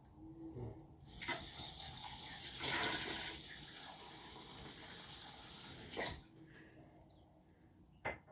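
Steady rushing hiss, like running water, that starts about a second in and cuts off after about five seconds, with a single click near the end.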